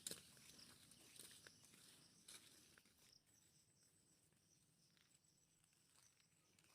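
Near silence: quiet outdoor background with a few faint rustles and soft steps in the first couple of seconds, then faint high chirps.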